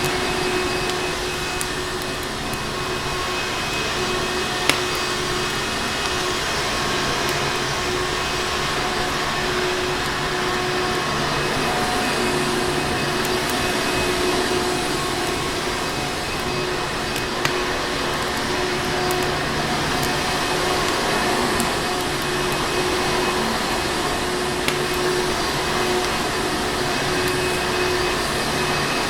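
Vacuum cleaner running steadily, a constant whooshing noise with a steady hum. A few sharp pops of a crackling fire sound over it, the loudest about five seconds in.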